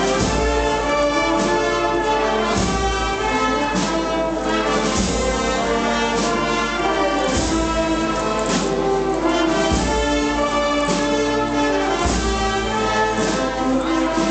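Processional brass-and-drum band (agrupación musical) playing a march: a brass melody over drums, with a deep bass-drum stroke about every two and a half seconds.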